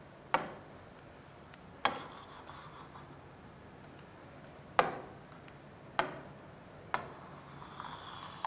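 Pen working on a writing surface: five sharp, irregularly spaced taps with faint rubbing strokes between them, as someone draws.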